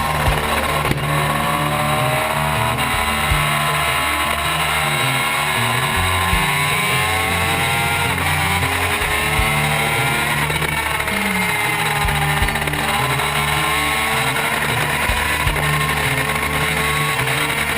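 Superbike engine running at high revs, its pitch climbing and dropping as the bike accelerates and slows.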